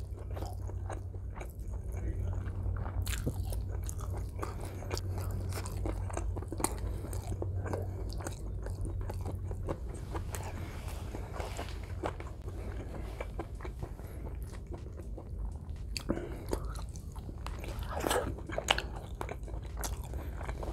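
Close-up chewing of rice and stewed meat, with many small wet mouth clicks. A low steady hum runs underneath for the first half and then fades.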